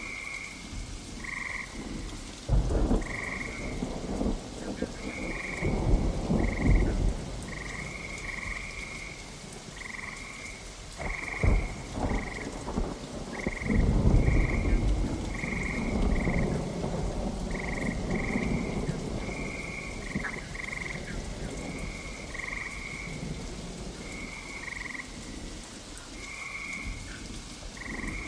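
Steady rain with several rumbles of thunder, the longest about halfway through. Frogs croak in short, high, repeated calls about once a second throughout.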